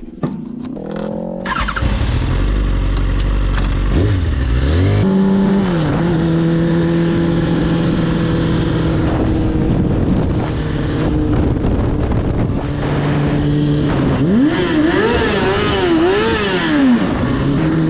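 Motorcycle engine revving up and pulling away, then running at a steady pitch for several seconds. Near the end the revs rise and fall several times in quick swells before holding steady again.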